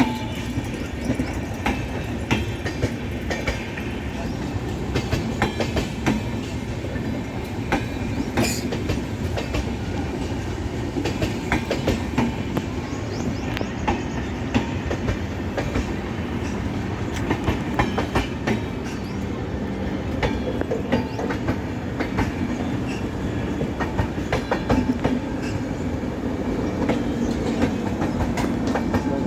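Passenger coaches of an express train rolling past, their wheels clattering steadily over the rail joints with a continuous rumble.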